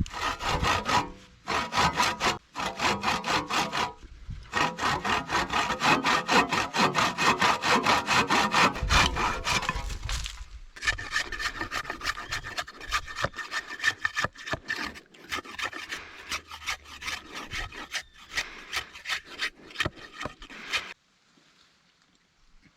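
Wood being cut with a hand saw in quick back-and-forth strokes, with a few short pauses, stopping abruptly near the end.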